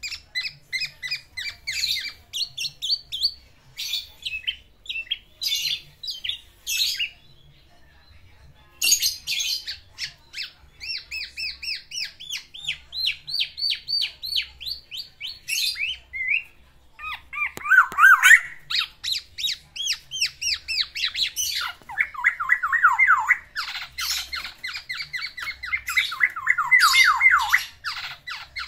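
Male black-naped oriole (kepodang) singing vigorously in fast runs of short repeated notes mixed with harsh calls, with a brief pause about seven seconds in. It is bringing out its learned fill-in phrases (isian) to court a female.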